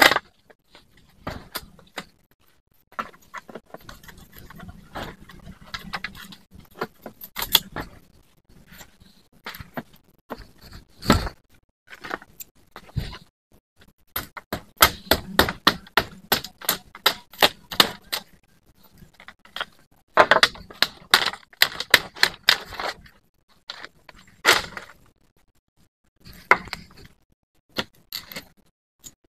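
Irregular sharp knocks and clicks of hand tools working on wood, in quick runs of several strikes a second with pauses between, as nails are worked out of a shelter frame.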